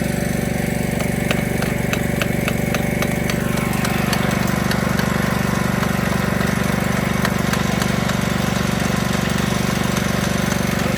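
A small engine running steadily, with a series of sharp ticks in the first few seconds and a steady hiss joining about four seconds in.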